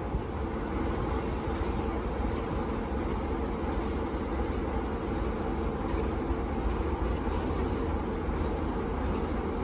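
A train running past with a steady low rumble and a constant engine drone.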